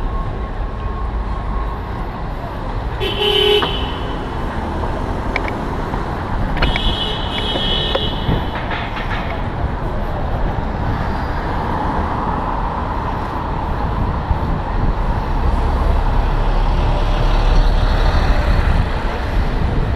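Street traffic noise with vehicle horns: a short honk about three seconds in and a longer honk about seven seconds in.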